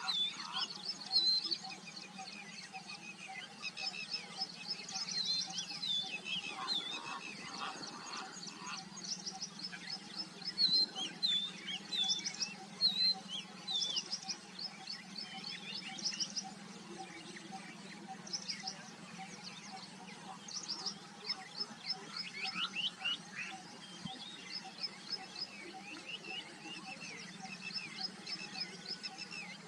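Many small birds chirping and singing at once, with quick repeated chirps and trills throughout, over a steady low hum.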